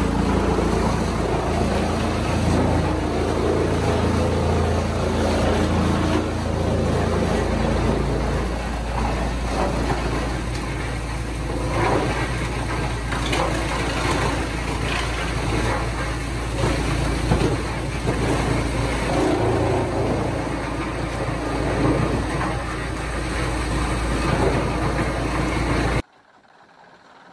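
Heavy engine-driven machinery running steadily with a deep hum and irregular clatter, then cutting off abruptly near the end.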